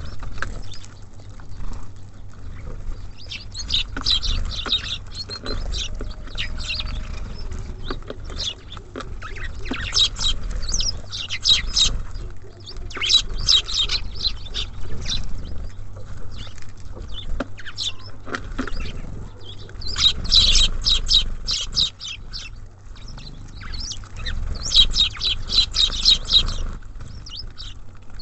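Small songbirds at a feeder, such as tits and sparrows, chirping in quick bursts of short high notes every few seconds, over a steady low rumble.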